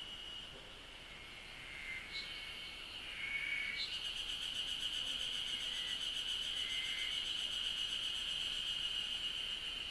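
Cicadas singing in a steady, high, continuous buzz that grows louder and fuller about four seconds in. A few short chirps sound underneath in the first half.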